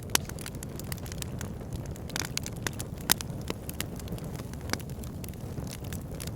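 Wood fire burning in a log burner: a steady low rumble of flames with irregular sharp crackles and pops from the logs, two louder pops standing out.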